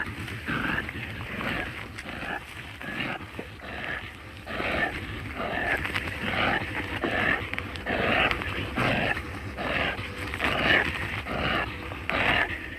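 Armadillo making a run of short, noisy grunts, two or three a second.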